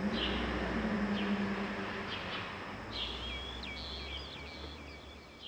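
Birds chirping over steady low outdoor background noise, with a quick run of trilled notes starting about three seconds in; the sound fades towards the end.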